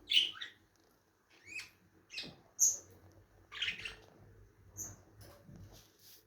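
Lovebirds chirping: a string of short, sharp, high-pitched calls at irregular intervals, the loudest near the start and about two and a half seconds in.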